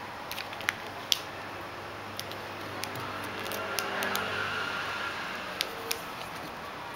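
A sheet of paper being folded and creased by hand: soft paper rustling with a few sharp crackles and taps scattered through.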